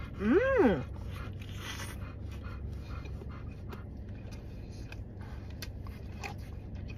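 A person chewing a mouthful of chicken sandwich, with small mouth clicks, while a dog pants quietly in a car's cabin over a steady low hum. About half a second in, a short whine rises and falls in pitch.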